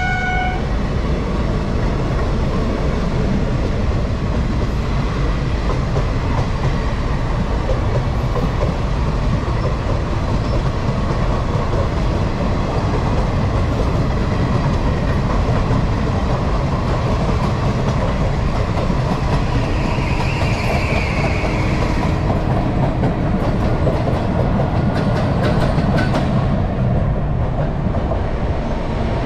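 A train horn ending about half a second in, then the steady running noise of a passenger train at speed, wheels clattering over the rail joints, with a few sharper clacks in the last third.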